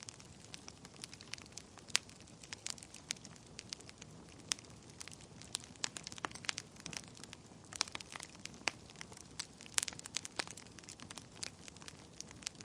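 Wood fire burning in a fireplace: irregular sharp crackles and pops over a low, steady hiss of flame.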